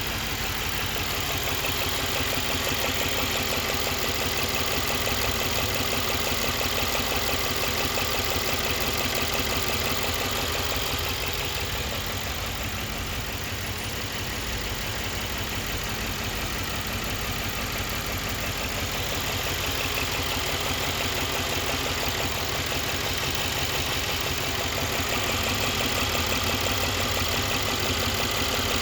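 2016 Mercedes-AMG C63 S's 4.0-litre twin-turbo V8 idling, with a fast, even ticking running through it: the odd engine noise that the owner finds pretty weird. It gets slightly quieter in the middle and comes back up near the end.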